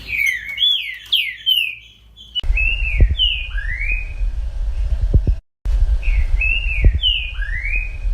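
Green-winged saltator (trinca-ferro) singing its 'baderninha' song: loud, repeated whistled phrases that slide up and down in pitch. From about a third of the way in, a low rumble and a few knocks sit under the song.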